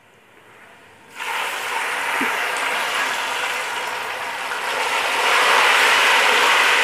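Wet tomato, ginger, garlic and green chilli paste hitting hot oil and fried onions in a pot, sizzling hard. The sizzle starts suddenly about a second in and builds as the paste is stirred in.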